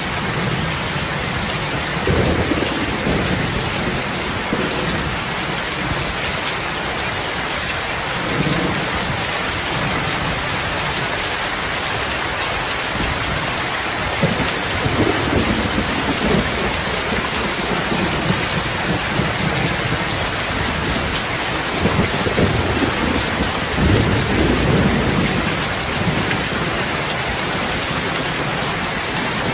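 Heavy, steady rain with low rumbles of thunder swelling up several times, each lasting a second or two.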